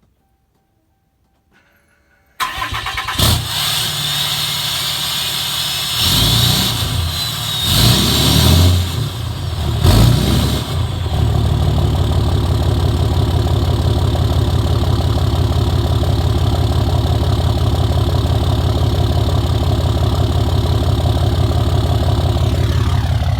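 2015 Ram 2500's 6.7 Cummins inline-six turbo diesel, with its exhaust deleted, starting about two seconds in. It is revved briefly three times, then settles into a steady idle.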